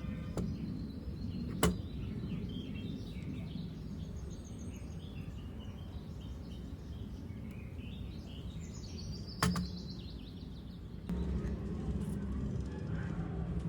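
Birds chirping over a steady low background rumble, with two sharp clicks, one about two seconds in and one near ten seconds.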